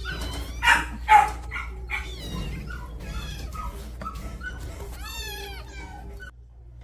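Young kittens mewing repeatedly: a string of short, high cries, with one longer cry that bends up and down about five seconds in.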